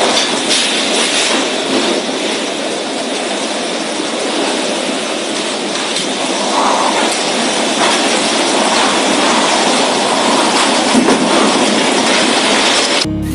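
Strong storm wind blowing hard, a loud, dense rushing noise that swells slightly in the second half and cuts off suddenly near the end.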